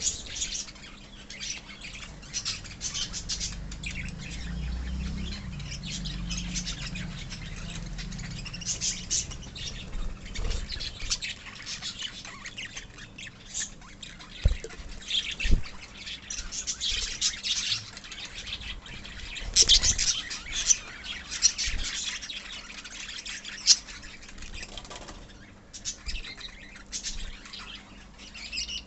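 Colony of lovebirds chattering, with a constant stream of short high chirps and sharp squawks. There is a low rumble for a few seconds near the start, and two sharp knocks about halfway through.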